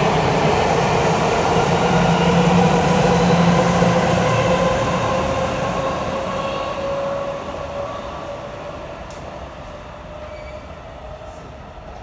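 Express electric commuter train passing through a station at high speed without stopping: a loud rush of wheel and rail noise with a steady whine that rises slowly in pitch. After about five seconds the sound fades steadily as the train runs away down the line.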